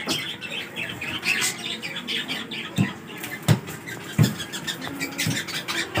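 Birds in an aviary chirping repeatedly, with several sharp knocks in the middle of the stretch.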